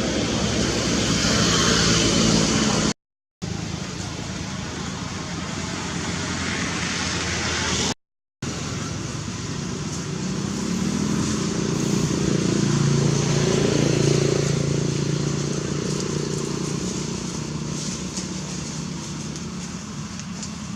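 Road traffic: a steady rumble of passing vehicles, with one engine growing louder and rising in pitch about halfway through, then fading. The sound cuts out completely twice for a fraction of a second.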